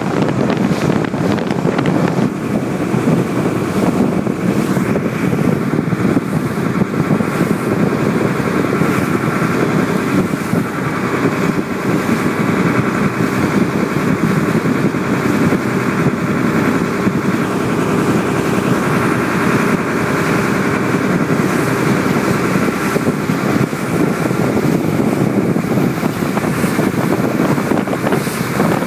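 Fishing boat's engine running steadily at constant speed.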